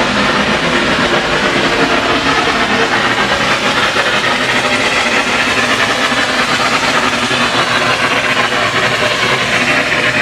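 Hot-spring geyser erupting and spewing: a loud, steady rushing hiss of steam and spouting water that does not let up.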